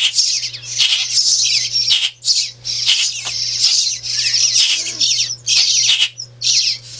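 Baby songbirds begging to be fed: a dense, near-continuous chorus of rapid, high cheeping with brief gaps. A low steady hum runs underneath.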